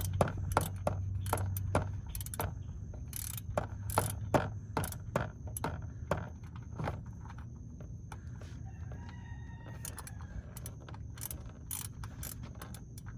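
Ratchet wrench with a 13 mm socket clicking in short irregular runs while backing out an oil drain plug. The clicks come thick for the first several seconds, then thin out.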